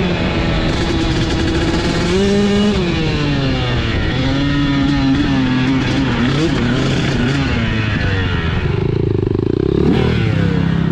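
Dirt bike engine being ridden, its pitch rising and falling with the throttle and stepping between gears.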